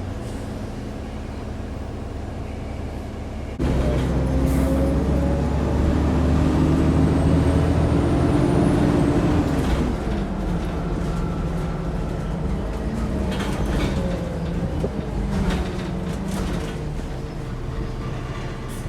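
Alexander Dennis Enviro400 double-decker bus heard from inside, its engine ticking over at a standstill. About three and a half seconds in it pulls away, and the engine gets louder with a rising whine as it accelerates, then eases to a lower, steady running note after about ten seconds.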